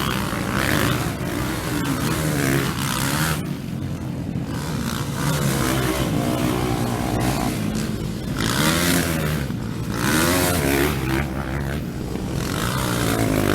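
Racing motorcycles passing at speed on a street circuit, their engines revving up and down through the gears. The sound comes in several waves as bikes go by close and then fade.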